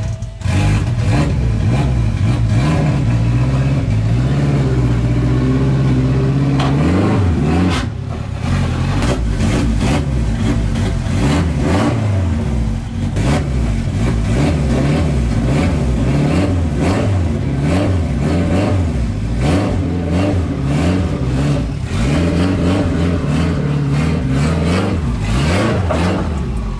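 Car engine running steadily for several seconds, then revved up and down over and over.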